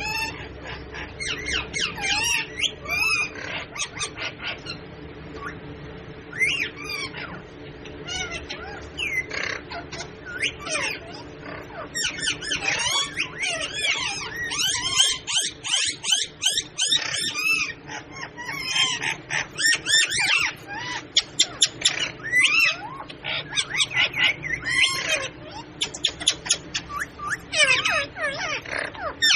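Parrots calling in fast runs of sharp squawks and chirps, busiest in the second half, over a faint steady low hum.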